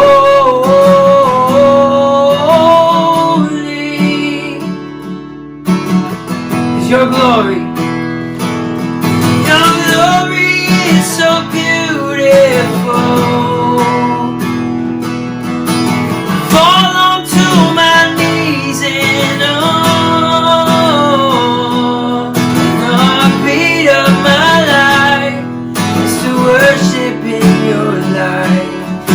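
Worship song music led by strummed acoustic guitar, with a flowing melody line and some wordless singing over it. The music thins out briefly about five seconds in.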